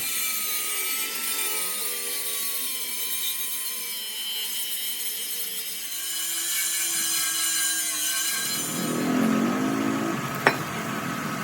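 A power tool grinding or cutting steel: a steady hissing grind with a thin whine that slowly falls in pitch over the first few seconds. A sharp click comes near the end.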